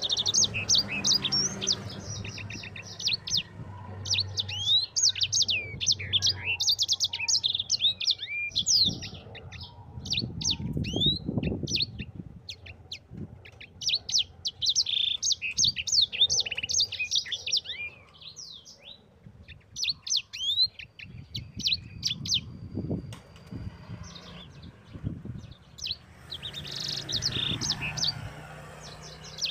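Sanger songbird singing a fast rolling song ('ngerol'): dense runs of rapid high chirps and trills, in bursts of a few seconds with short pauses between them.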